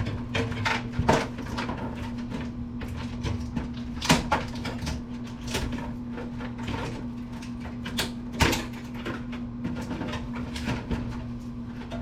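Clicks and knocks of the plastic and metal parts of a circa-2000 Apple computer being handled and shifted while it is taken apart, the loudest about a second, four seconds and eight seconds in. A steady low hum runs underneath.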